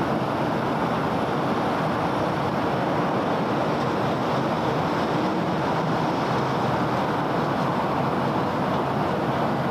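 Steady city road traffic noise: a dense, even wash of many vehicles and tyres on the road, with no single vehicle standing out.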